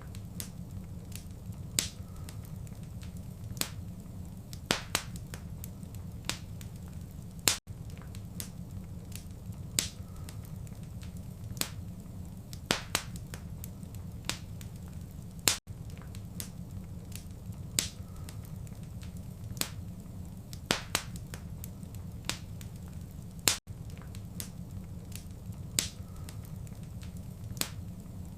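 Wood fire crackling: irregular sharp snaps and pops, a few much louder than the rest, over a steady low rumble, with a brief dropout about every eight seconds.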